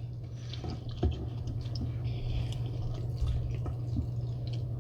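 Wet squishing, small clicks and chewing from hands and mouth working through a buttery Cajun-sauced seafood boil close to the microphone, over a steady low hum.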